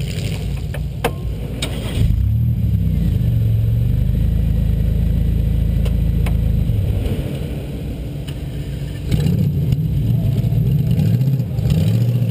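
2000 Buick LeSabre's 3.8-litre V6 revving hard in surges, heard from inside the cabin. It swells about two seconds in, eases off near seven seconds, and surges again twice near the end, with a few sharp knocks and clatters over it.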